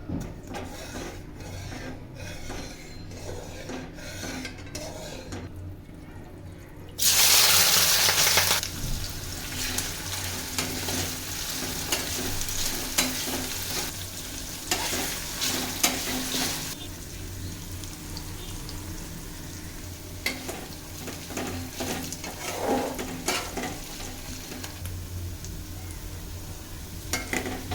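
Sliced onions frying in hot oil for birista: a sudden loud burst of sizzling about seven seconds in, easing after a second or so into steady sizzling that grows quieter in the second half, with a utensil stirring and clinking against the pan.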